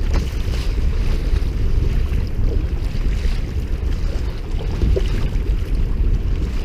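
Wind buffeting the microphone with a steady low rumble, over light splashing of sea water around a kayak.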